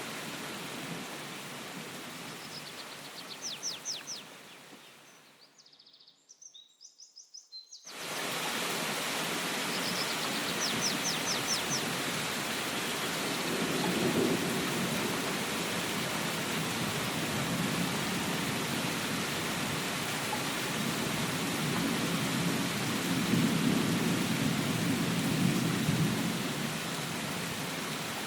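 Steady rain falling, with low rumbles of distant thunder swelling twice in the second half. A bird gives a short trill of rapid high notes twice early on. Partway through, the rain fades nearly to nothing for a couple of seconds, then returns abruptly.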